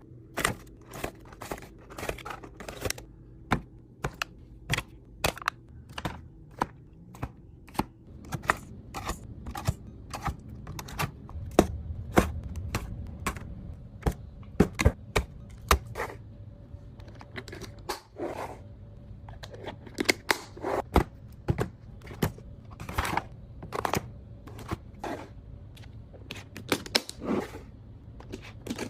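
Irregular sharp clicks and knocks, about two or three a second, of containers and packaging being handled and set down while restocking a fridge, over a steady low hum.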